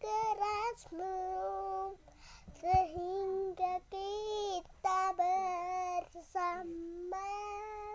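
A high voice singing a string of held, wordless notes, about six of them, each lasting around a second. The first notes waver in pitch and the later ones are held mostly level.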